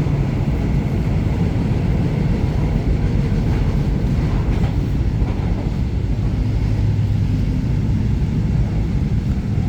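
Seoul Metro Line 4 train running on the Gwacheon Line, a steady low rumble of wheels on rail with no distinct joint clicks.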